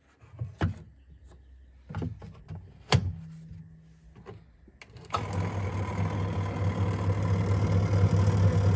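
A few sharp knocks and clicks, then about five seconds in a washing machine's motor starts with a steady hum that slowly grows louder.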